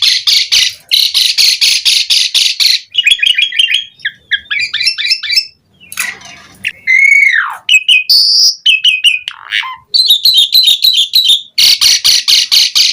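Asian pied starling (jalak suren) in full, energetic song: runs of harsh rattling notes at about six a second, broken in the middle by varied chattering, clear whistles and a long swooping note that falls in pitch.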